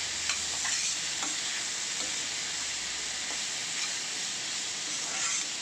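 Cubes of raw banana sizzling in oil in a black kadai while a metal ladle stirs and scrapes through them, with a few short clicks of the ladle against the pan.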